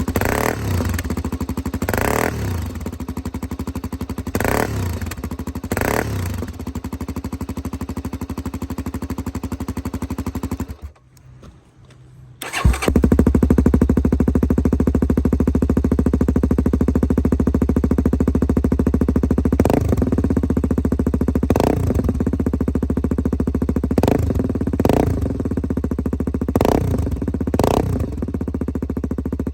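Honda XR250's single-cylinder four-stroke engine idling through a DELTA aftermarket muffler fitted with a restrictor, with short sharp blips several times. About 11 seconds in it breaks off for a couple of seconds, then runs again noticeably louder.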